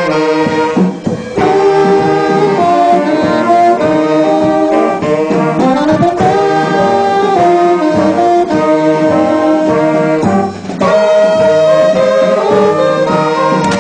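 Small instrumental band of saxophones and brass playing a tune together in held, stepping notes; the music drops briefly about a second in and again near eleven seconds.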